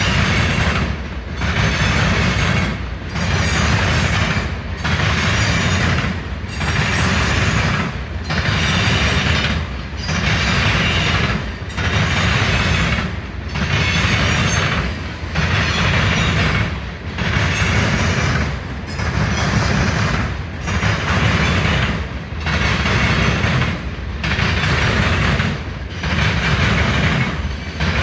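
A train passing close by at a steady speed, its rolling noise dipping briefly about every second and three-quarters as each car goes past.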